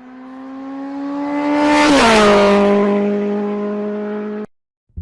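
A motor vehicle passing by: a steady engine hum grows louder, drops in pitch as it goes past about two seconds in, then fades, and it cuts off suddenly near the end.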